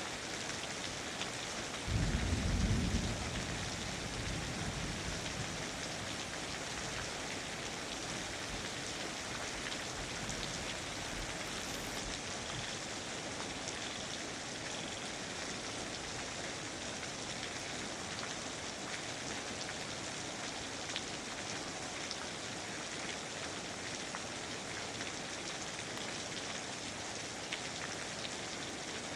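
Steady, even rainfall, with one low rumble of thunder breaking in about two seconds in and dying away over the next few seconds.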